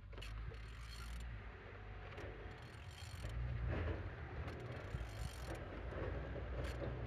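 A Volkswagen 1.6 TDI (CAYC) engine being turned over by hand with a ratchet wrench: irregular ratchet clicks and mechanical rattling over a low hum. It turns freely, which is taken as a sign that the engine is not seized.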